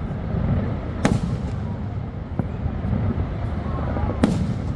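Aerial firework shells bursting one at a time: two loud bangs, about a second in and near the end, with a fainter one between, each trailing off in a short echo over a steady low rumble.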